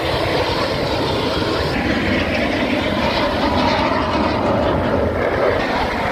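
Aircraft engine noise at an air show: a loud, steady rushing sound with a faint wavering whine.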